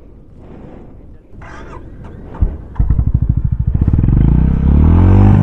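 A Honda motorcycle's engine comes in about halfway through, pulsing slowly, then revving up to a loud, steady higher note as the rider tries to drive the loaded bike out of soft sand it is bogged in.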